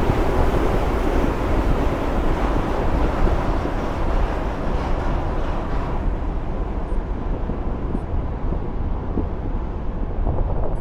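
Wind rushing over a bike-mounted camera's microphone with tyre and road noise from a road bike riding on wet roads; a steady low rumble throughout, and the higher hiss dies down about halfway through.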